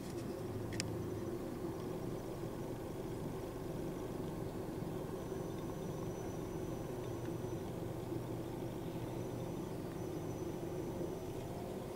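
Vehicle engine idling with a steady low hum, with a single click about a second in and a faint thin high whistle coming and going in the middle.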